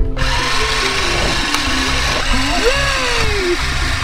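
Electric drill running steadily as it turns a socket on a nut, over light background music, with a sliding tone that rises and then falls about two and a half seconds in.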